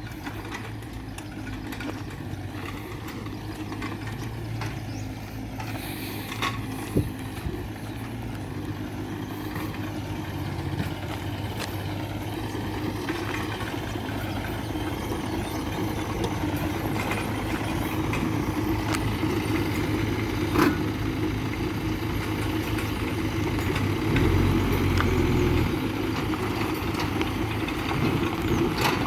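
Engine running steadily and gradually getting louder, with a louder, deeper stretch about 24 seconds in. A couple of sharp knocks stand out, one about 7 seconds in and one about 20 seconds in.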